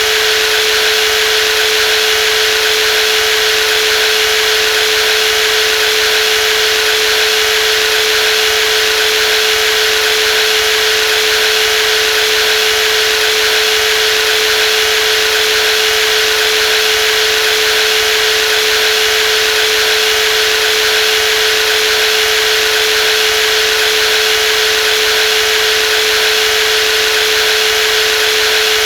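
Brushless jigsaw running steadily, with a high motor whine over a dense hiss; no change in speed.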